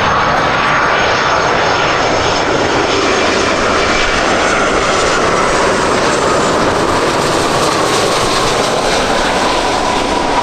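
Jet airliner passing low overhead on its final approach to land: a loud, steady engine noise with a whine that slowly falls in pitch.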